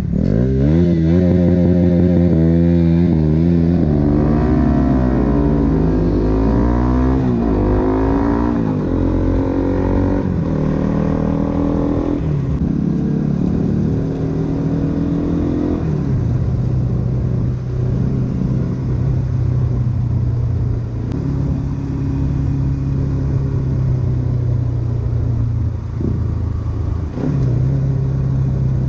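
Motorcycle with an aftermarket Akrapovic exhaust pulling through the gears: the pitch climbs and drops back at each shift over the first dozen seconds, then the engine settles to a steadier cruise with a couple more gear changes.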